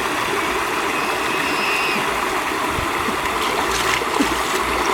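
Running stream water, a steady rushing, with a few faint clicks or knocks near the end.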